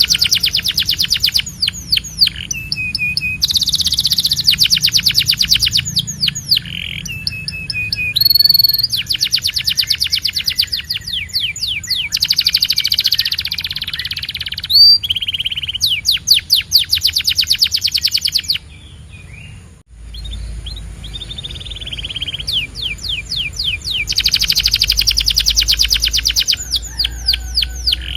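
Domestic canary singing: fast trills and rolls of rapidly repeated high notes in phrases separated by short pauses, with a brief break about two-thirds of the way in before the song resumes.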